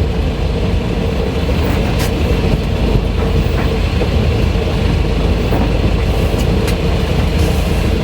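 A sailboat's inboard engine running steadily while motoring off the anchor, with wind rumbling on the microphone.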